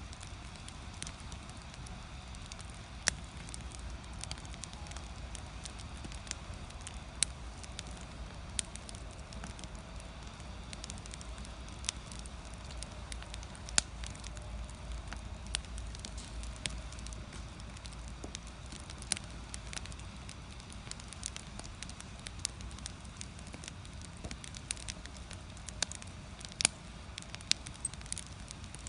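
Firewood burning in a traditional Korean agungi firebox: irregular crackles and sharp pops over a low steady rumble.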